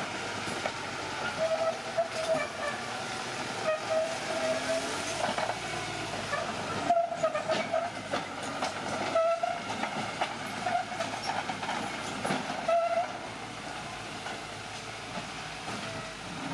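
Crawler bulldozer working, its steel tracks letting out short high-pitched squeals every few seconds over the clatter of the tracks and the engine. The sound eases off somewhat about thirteen seconds in.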